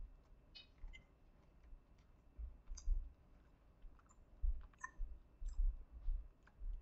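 A person chewing a mouthful of soft, cakey chocolate chip cookie: faint mouth clicks and dull low thuds that come in irregular clusters.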